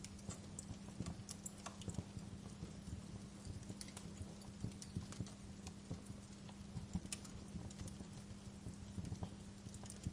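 Fireplace fire crackling, with irregular sharp pops and snaps over a steady low hum.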